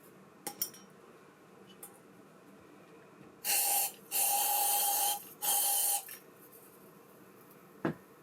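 Aerosol spray can hissing in three short bursts, the middle one longest, as reel parts are sprayed during cleaning. A few small clicks come before it and a short knock near the end.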